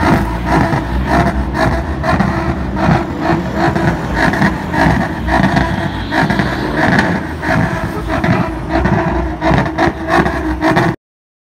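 Car engines running as modified cars pull away from a meet. The sound cuts off suddenly near the end.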